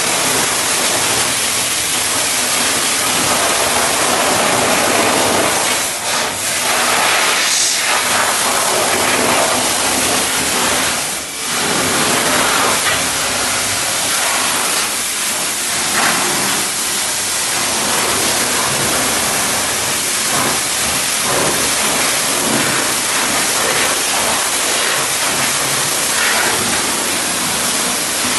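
High-pressure water spraying onto a car, a loud, steady hiss that breaks off briefly about six seconds in and again about eleven seconds in.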